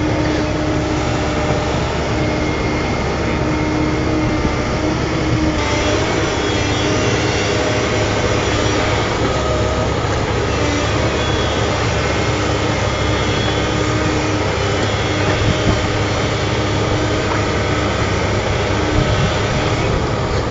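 Excavator's diesel engine running steadily under load, with a steady whine over the low rumble.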